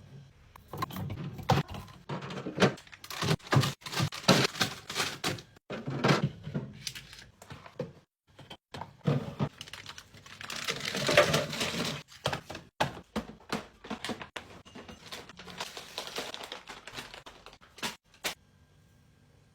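Groceries being handled and packed into a small refrigerator: a busy run of clicks, knocks and thunks of containers set down, with the rustle of packaging. It stops about a second before the end.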